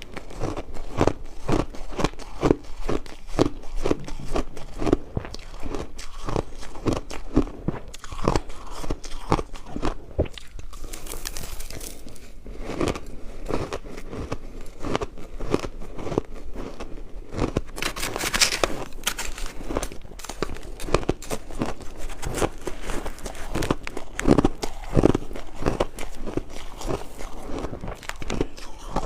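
Ice being bitten and chewed close to the microphone: a continuous run of irregular crunches and cracks, with sharper, brighter bites about 11 and 18 seconds in.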